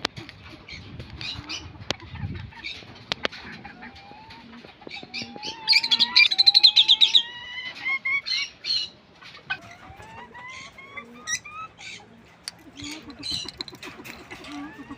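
Birds chirping and calling: scattered short chirps, a series of rising whistled notes, and a loud rapid trill about six seconds in.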